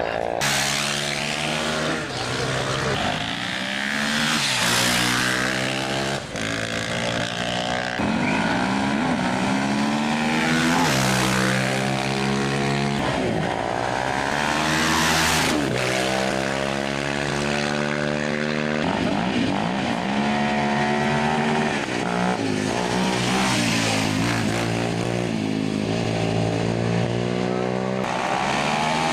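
Off-road racing motorcycle engines running hard, the pitch climbing under acceleration and dropping back at each gear change, over and over.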